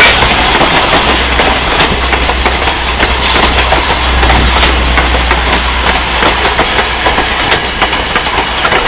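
Steam train's passenger coaches rolling past close by, a steady rumble of wheels on the rails with many irregular clicks and clatters from the wheels over the track.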